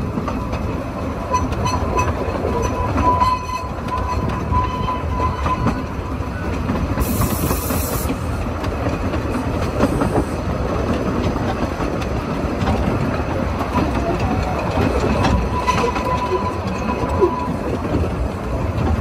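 A 2 ft narrow-gauge railway carriage running along the track, its wheels clattering over the rail joints, with a steady rumble and wind buffeting the microphone. A thin, steady wheel squeal on the curves sounds for the first few seconds and again a couple of seconds before the end.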